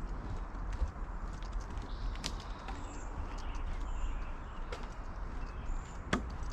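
Footsteps of someone walking on a trail, with a few sharper clicks and faint high chirps in the background.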